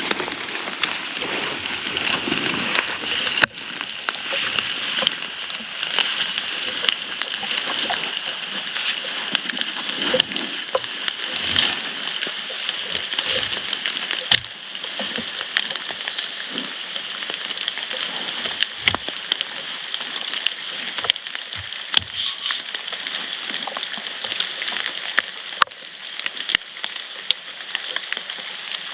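Steady rain falling, a constant hiss with frequent sharp ticks of single drops striking close by.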